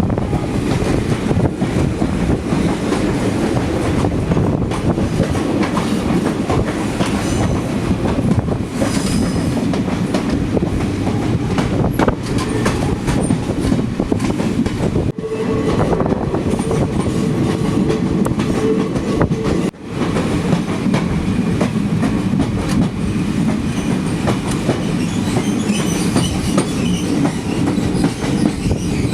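Passenger train running, with a steady rumble and the clickety-clack of wheels over the rail joints.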